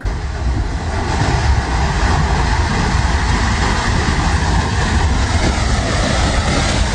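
Loud, steady rushing roar of fast floodwater sweeping things away, with a heavy low rumble underneath. It starts abruptly and holds even throughout.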